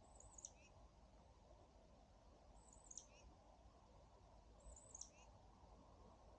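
A wild bird giving three brief, high-pitched calls about two seconds apart, each a thin note sliding down in pitch followed by a short lower note.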